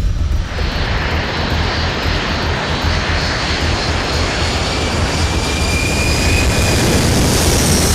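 The four turbofan jet engines of a C-17 Globemaster III running at high power: a loud, dense rushing noise with high whining tones over it. It comes in abruptly about half a second in and cuts off near the end.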